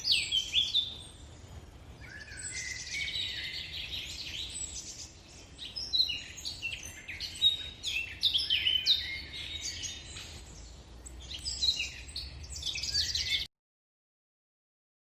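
Many birds chirping and calling at once, quick high overlapping notes and trills, over a faint low rumble; it all cuts off suddenly near the end.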